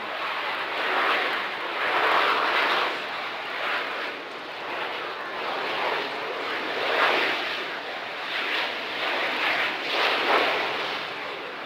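Blue Angels F/A-18 Hornet jet flying low past, its loud engine noise swelling and fading in waves several times.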